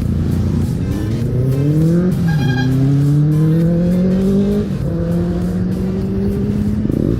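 Vehicle engine accelerating hard through the gears: its pitch climbs, drops suddenly at an upshift about two seconds in, climbs again, then drops at a second shift and holds steadier. A brief higher-pitched tone sounds right after the first shift.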